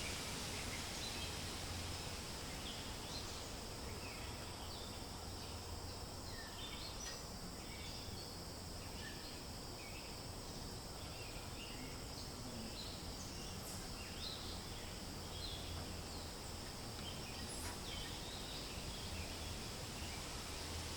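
Forest ambience: a steady rush of wind in the leaves under many short, high bird chirps scattered throughout.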